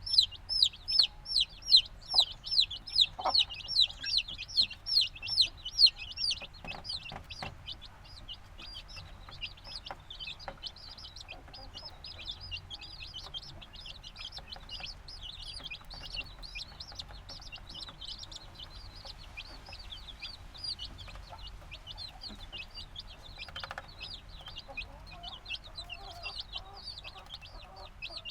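A brood of newly hatched chicks peeping. For the first six seconds one chick gives loud, regular peeps, each a short falling note, about three a second; after that many quieter peeps overlap in a steady chatter, with a few soft taps about seven seconds in.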